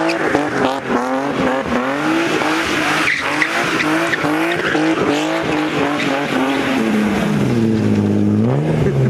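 A car doing donuts or drifting, its engine revving up and down in quick pulses about two to three times a second over a hiss of tyre squeal. Near the end the revs steady, dip and rise again.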